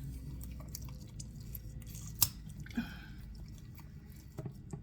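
Raw butterflied chicken being handled and pressed flat on a cutting board: soft wet squishing and light rustling, with a sharp click about two seconds in.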